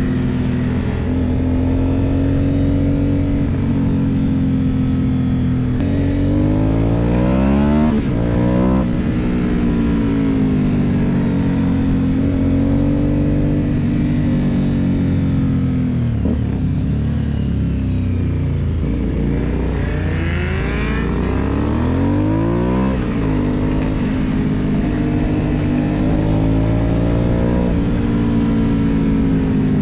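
Aprilia Dorsoduro 750's V-twin engine heard onboard while riding downhill. The revs rise and fall again and again through throttle, gear changes and engine braking, with quick climbs about a fifth of the way in and again about two-thirds of the way in.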